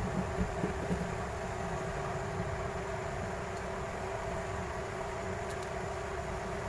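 Steady mechanical hum of a running fan or motor, with a few light knocks in the first second.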